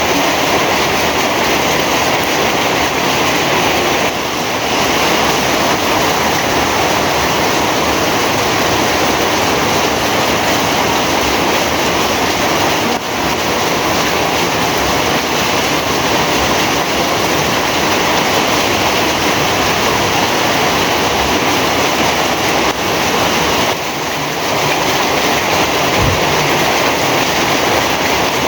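Heavy rain falling in a steady, dense downpour, with brief slight dips in loudness about four seconds in and near the end.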